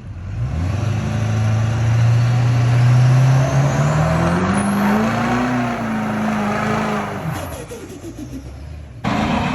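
A truck engine revving up slowly and steadily, then dropping back down, with a thin high whistle rising along with it. The sound cuts abruptly near the end.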